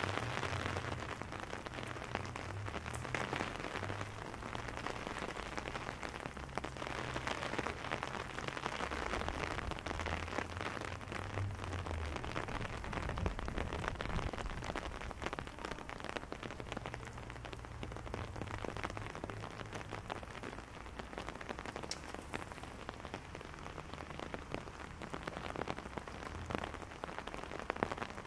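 Steady rain falling on a wet cobblestone street and on an umbrella held overhead: a continuous hiss dotted with many small drop ticks.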